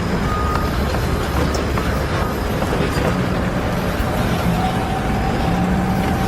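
A large engine, such as a truck's or a construction machine's, running steadily, with a short high beep about half a second in and a steady whine from about four seconds on.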